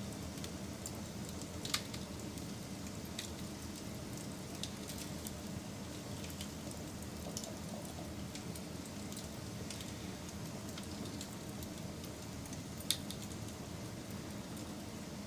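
Wood fire burning with a steady hiss and scattered crackles, and two sharper pops, one about two seconds in and another a couple of seconds before the end.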